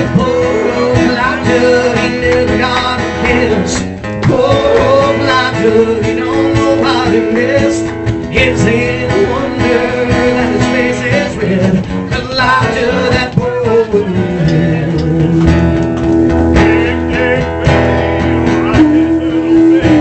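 Country band playing live, led by acoustic guitar.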